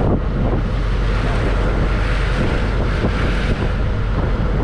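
Wind buffeting the microphone during a ride on an open vehicle, over a steady low engine rumble.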